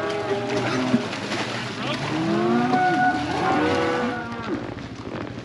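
Several cattle mooing and bawling over one another during a cattle drive, the calls overlapping about two seconds in, with a steady low hum underneath.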